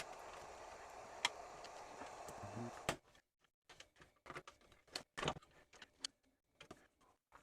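Scattered small clicks and taps of hands working on a car radio's wiring harness and plastic dash kit. A steady background hiss cuts off suddenly about three seconds in, leaving only the clicks.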